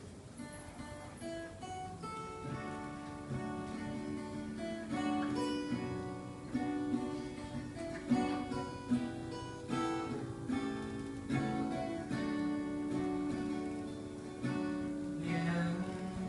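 Acoustic guitar intro, chords strummed and single notes picked in a steady rhythm.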